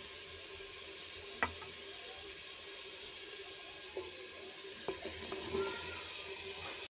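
Cauliflower frying in oil in a steel pot, a steady sizzle. There is one sharp knock about a second and a half in, and a few lighter clunks in the second half as raw potato pieces are tipped into the pot.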